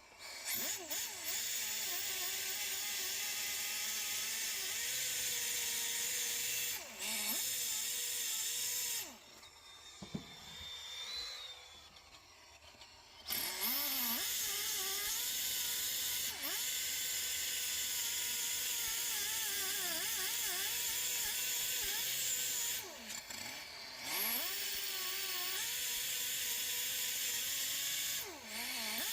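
Handheld power tool running in three long bursts with short pauses between, its pitch sagging and recovering as it is loaded.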